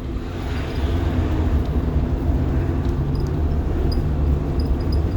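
The rear-mounted diesel engine of a 1990 Blue Bird All American school bus running steadily under way, a constant low rumble with road noise, heard from inside the bus.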